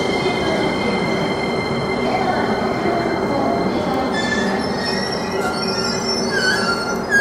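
E231-series electric commuter train slowing into the station, with a steady rumble and whine. From about four seconds in it adds short, high brake squeals as it comes to a stop.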